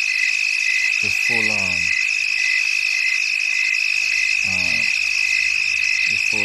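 Background nature recording of chirping crickets and frogs: a steady high insect drone with a short chirping note repeating about every half second. A few brief lower sounds fall in pitch over it.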